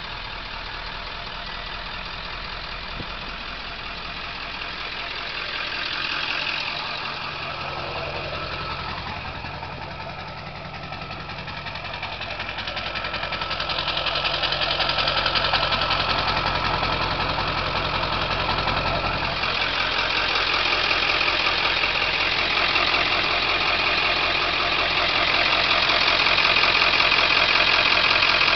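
Straight-piped 7.3-litre Powerstroke turbo diesel V8 of a 1999 Ford F250 Super Duty idling steadily. It gets noticeably louder around the middle and stays louder.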